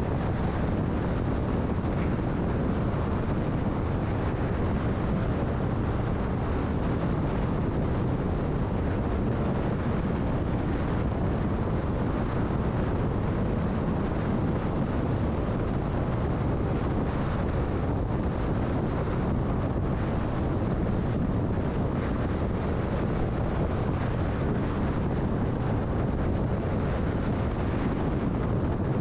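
Steady road and wind noise of a car cruising at freeway speed, an even low rush with no changes.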